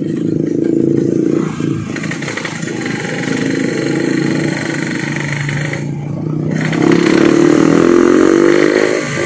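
Yamaha RX-King two-stroke single-cylinder motorcycle with a hollowed-out 'bobokan' exhaust, running loud under way; the throttle eases off briefly about six seconds in, then the revs climb steadily.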